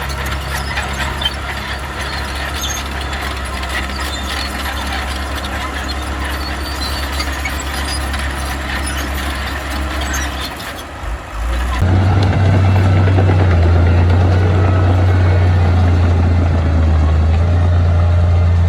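Diesel engines of heavy earthmoving machinery running steadily. About two-thirds of the way in, the sound briefly dips, then gives way to a louder, deeper engine drone.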